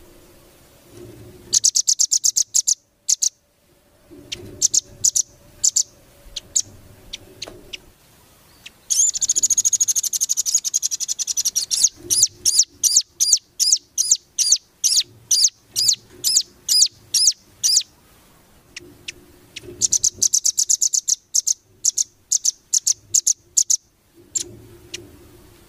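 Small songbird singing in rapid-fire 'nembak' style: phrases of sharp, high chip notes and fast trills, several phrases separated by short pauses.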